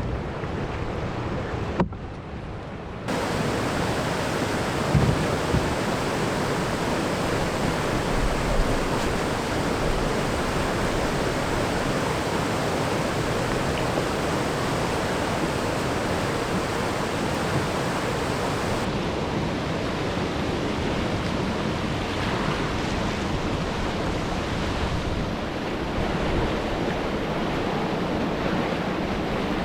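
Rushing whitewater of a river rapid, a steady, even noise of fast water. It is briefly quieter about two seconds in.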